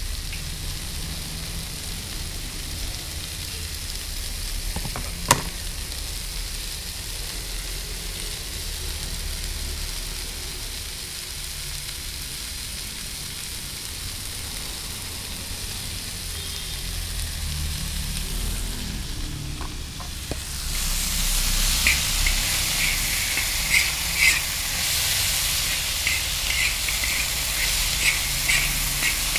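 Long beans and potatoes sizzling in a large wok, with one sharp click about five seconds in. From about twenty seconds in the sizzle grows louder, and short scrapes and clicks of the food being stirred against the wok follow.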